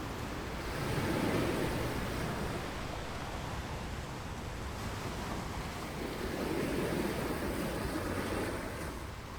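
Ocean waves breaking on a beach, two swells of surf about a second in and again around seven seconds, over a steady low rumble with some wind on the microphone.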